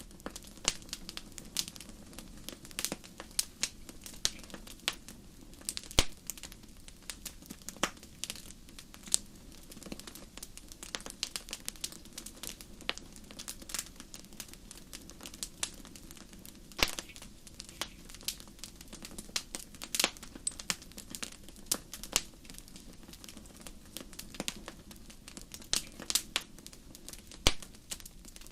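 Wood fire burning in a fireplace: irregular sharp crackles and pops, several a second, over a low steady hiss of the flames.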